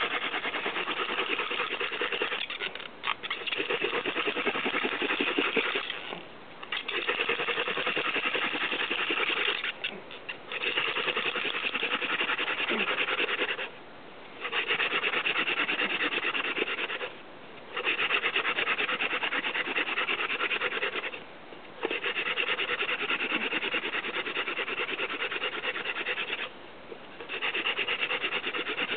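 Xanthorrhoea (grass tree) flower-spike spindle spun by hand in a Xanthorrhoea hearth board, grinding against the wood in a steady scratchy rub. It comes in spells of a few seconds, broken by short pauses as the hands move back up the spindle. This is the friction that grinds out the hot dust pile that becomes the ember.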